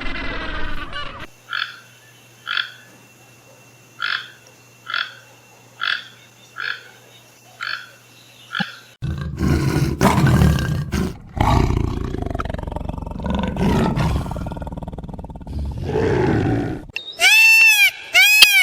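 A sequence of different animal calls: about nine short, evenly spaced calls, then a loud, low roar lasting several seconds, then high arching bleats near the end.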